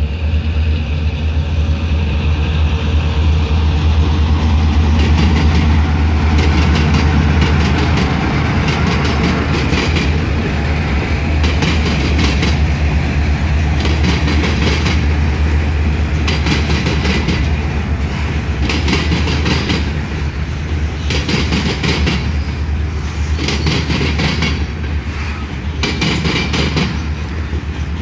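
Freight train passing close by: the low, steady drone of its two EMD road-switcher diesel locomotives (a GP38-2 and a GP9u) fills the first several seconds. Then covered hopper cars roll past, their wheels clacking over the rail joints in regular clusters about every two seconds.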